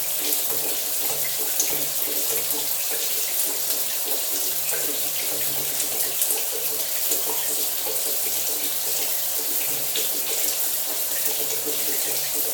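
Shower running, water spraying steadily onto a surface as an even hiss, with a low hum that comes and goes.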